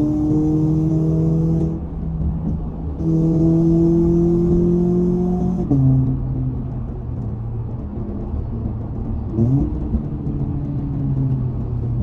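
Toyota 86's flat-four boxer engine pulling under acceleration, its pitch climbing steadily in two pulls. The revs drop suddenly about six seconds in, as with a gear change, and then run lower and steadier, with a short rise in pitch near the end.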